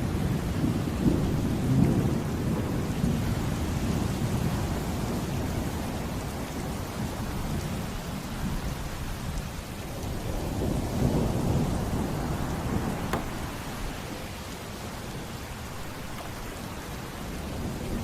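Steady heavy rain with thunder rolling in twice: once in the first few seconds and again a little past the middle.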